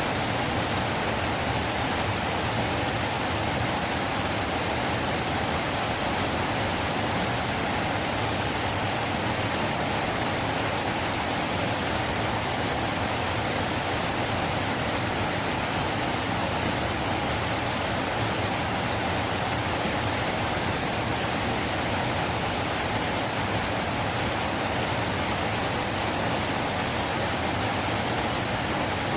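River water flowing, a steady rush with no change in level.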